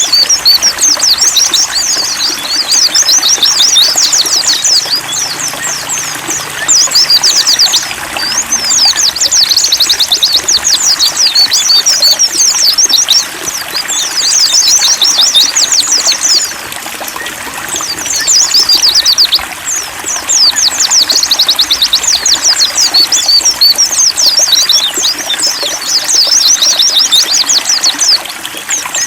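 A chorus of white-eyes (pleci) singing rapid, high twittering chirps almost without pause, with a few short breaks. Trickling water runs steadily underneath.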